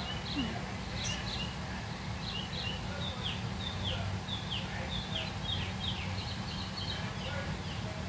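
Birds chirping: a quick run of short, high notes, each dropping in pitch, over a low steady rumble.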